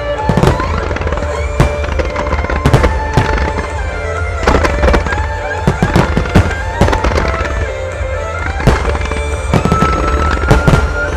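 Starmine fireworks bursting in quick succession, many sharp bangs and crackles one after another, with music playing under them throughout.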